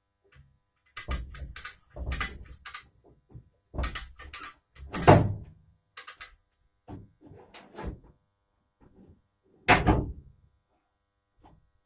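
Irregular metal clanks and knocks, a few of them ringing on briefly, from a Moskvich 412 engine being manhandled into place in an engine bay. The loudest clank comes about five seconds in and another near the end.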